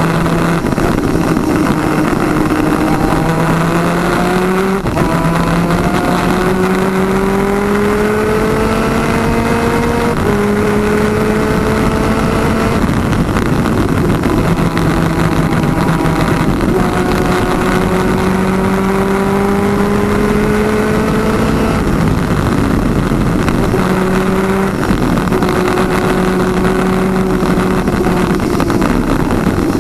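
Twin-cylinder 250cc two-stroke superkart engine at race speed, its note climbing under acceleration and dropping sharply at each of several gear changes, over steady wind noise.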